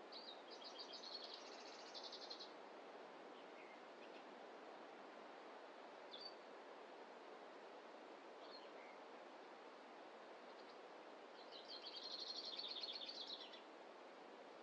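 A small songbird sings two rapid, high trills of about two seconds each, one at the start and one near the end, with a few short high calls between them. A faint, steady hiss of outdoor background noise runs underneath.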